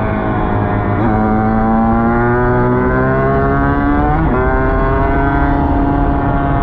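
Dirt bike engine accelerating through the gears. The pitch climbs, drops sharply at upshifts about a second in and again about four seconds in, then holds near steady.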